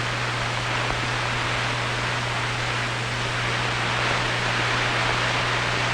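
Steady hiss with a low, constant hum, the background noise of an old film's soundtrack, with no other sound in it.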